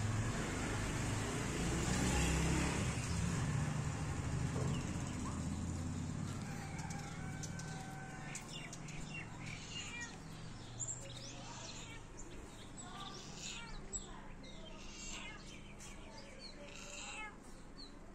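Small birds chirping in many short, quick notes from about six seconds in, over a low rumble that fills the first few seconds and then fades.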